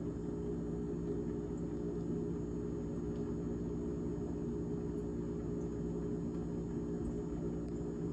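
GE GTH18XCTZRBB refrigerator running, a steady hum of several low tones with no change in speed or level.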